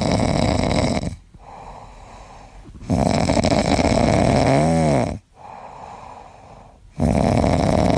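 A pet snoring in slow, even snores about two seconds long, with quieter breaths between them. The middle snore carries a short wavering whistle near its end.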